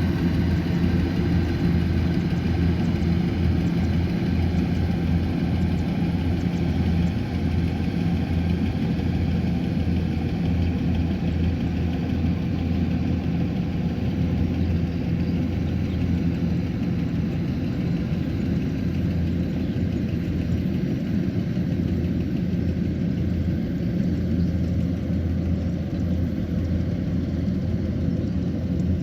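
Kubota combine harvester's diesel engine running steadily with its machinery, an even low hum.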